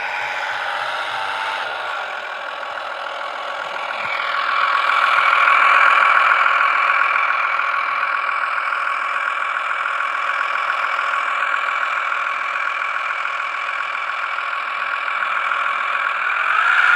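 Engine sound module on a Traxxas TRX-4M RC crawler playing a simulated truck engine through its small speaker. It swells louder about four to six seconds in, as if revving, then runs steadily, with another brief rise near the end.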